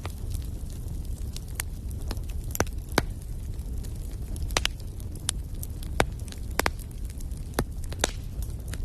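Wood fire in a fireplace crackling: irregular sharp pops and snaps, a dozen or so, over a steady low background of the burning fire.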